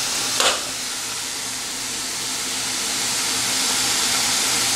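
Chicken liver curry, cooked down with no water left, sizzling in the pan: a steady hiss that slowly grows louder and cuts off suddenly at the end. A short scrape sounds about half a second in.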